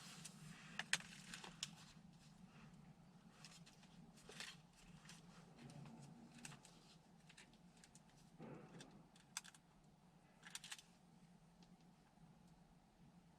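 Near silence: faint room tone with a steady low hum and scattered light clicks and taps, the sharpest about a second in.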